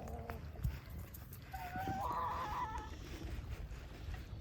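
Hens calling in the pen: the tail of one call right at the start, then a longer, higher, wavering call about two seconds in.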